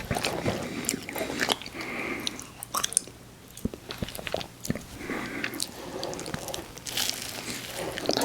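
Close-miked eating of ice cream desserts: irregular bites, crunches and wet chewing and mouth sounds, easing off briefly about three seconds in before starting again.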